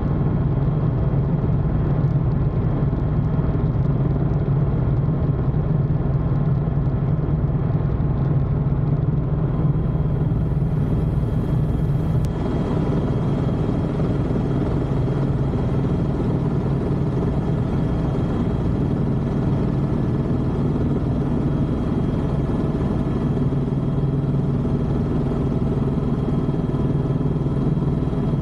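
Helicopter in flight: a steady, loud engine and rotor drone with several steady tones in it, changing slightly about twelve seconds in.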